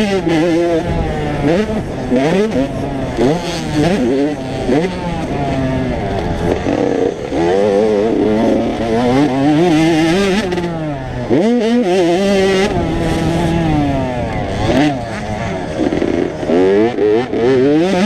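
Several 85cc two-stroke motocross bikes running hard, their engine pitch repeatedly climbing and dropping as the riders accelerate, shift and back off, with overlapping engines at different pitches.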